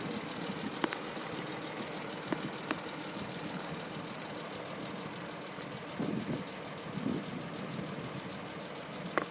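1941 Dodge WC13 weapons carrier's flathead straight-six engine idling steadily, with a few sharp clicks over it.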